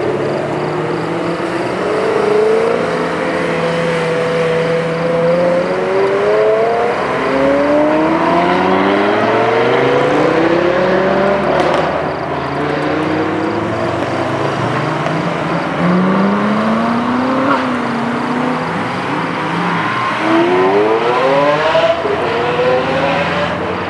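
Several exotic sports car engines revving and accelerating past one after another, their notes rising in repeated overlapping sweeps as they pull up through the gears.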